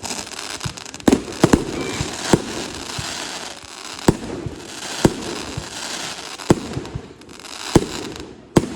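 Consumer fireworks going off: sharp bangs about every half second to second and a half, with a dense crackling hiss between them.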